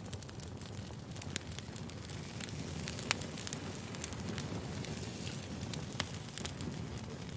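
Firewood burning: a steady low rumble of the fire with frequent sharp pops and crackles, two louder snaps about three and six seconds in.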